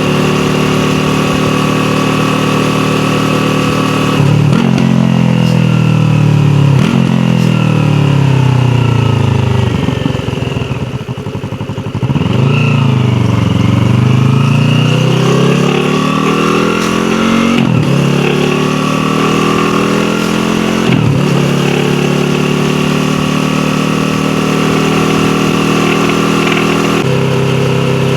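Yamaha YZF-R3's parallel-twin engine, heard from on the bike: it runs steadily for a few seconds, then revs up through the gears with a sudden pitch drop at each upshift. It eases off in the middle, the pitch falling, then pulls again through two more upshifts and settles into a steady cruise.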